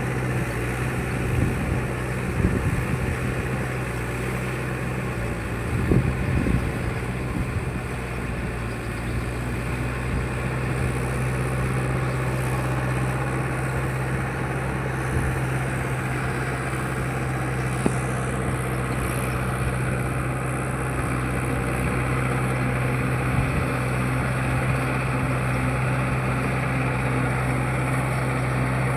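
Mahindra 585 tractor's diesel engine running steadily, with a few short knocks around two and six seconds in.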